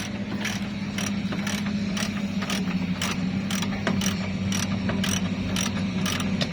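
Regular mechanical clicking, about two to three clicks a second, over a steady low hum.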